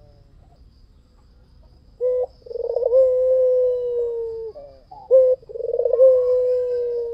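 White (albino) puter, the domestic ringneck dove, cooing: after about two seconds of quiet it calls twice, each time a short note followed by a long drawn-out coo.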